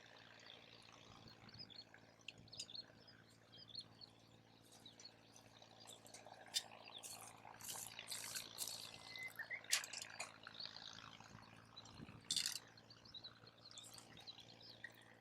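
Wood campfire crackling, with scattered sharp pops and snaps, the loudest about ten and twelve seconds in.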